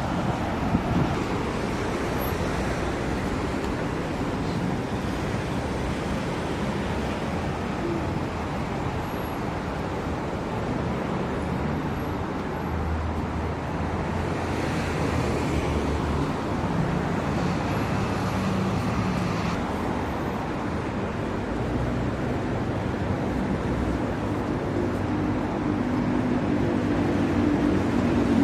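Steady road traffic noise from passing cars and buses, with a vehicle engine's hum growing a little louder near the end.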